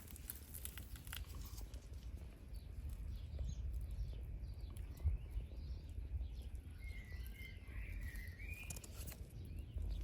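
Small birds chirping and singing over a steady low wind rumble on the microphone, with a short warbling phrase standing out about seven seconds in.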